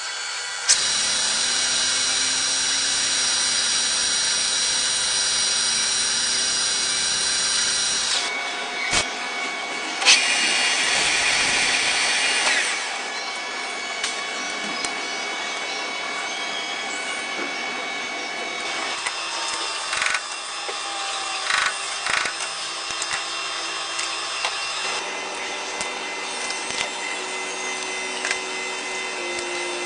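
Machine tool running and cutting metal while a hydraulic rod is machined, with a steady whine and cutting noise. The sound changes abruptly every few seconds, with a couple of sharp clicks.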